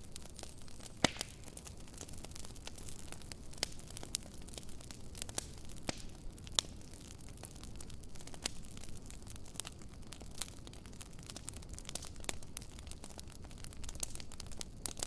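Wood fire in a fire pit burning with a low steady rush, popping and crackling at irregular moments, with a few louder pops about a second in and again halfway through.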